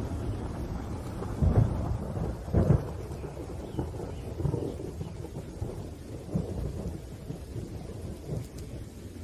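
Thunder rumbling over steady rain, with two loud peaks about one and a half and two and a half seconds in, then smaller rolling rumbles that ease off.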